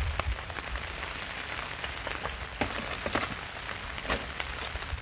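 Steady rain falling, with scattered individual drops tapping on nearby surfaces.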